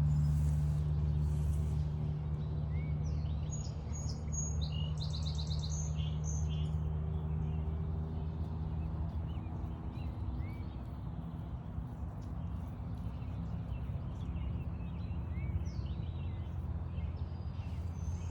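Wild birds calling and singing, with short chirps and trills, over a steady low hum that eases off a little in the first few seconds.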